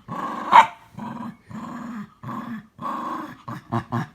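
Dog growling in repeated bursts, breath by breath, while refusing to let go of a ball toy in a play tussle. One sharper, louder burst comes about half a second in, and the growls turn quicker and shorter near the end.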